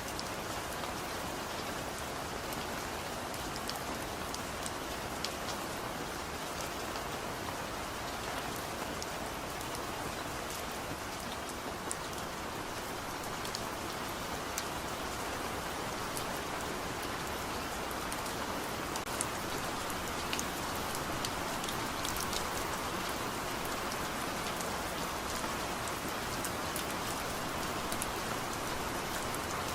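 Heavy rain falling in a steady hiss, with scattered sharp drips of individual drops hitting a surface.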